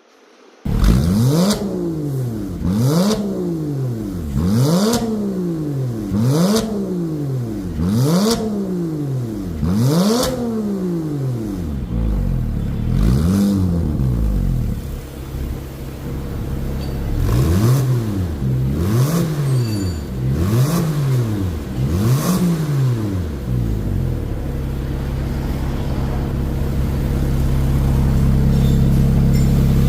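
Porsche 987 flat-six engine through a twin-valve aftermarket exhaust with carbon tips, revved in a string of quick blips, each rising and falling back, roughly one every two seconds, then held at a steady raised rev near the end.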